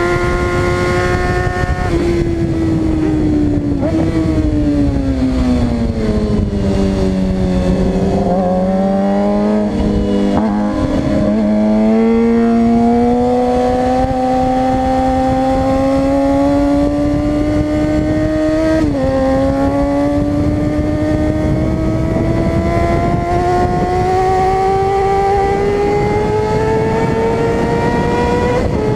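Suzuki GSX-R 600 inline-four sport-bike engine on track. For the first several seconds the revs fall as the bike slows, with a couple of quick jumps in pitch as it is shifted down. It then pulls with the engine note rising steadily, broken by one short dip about two-thirds of the way through as it is shifted up, over steady wind rush.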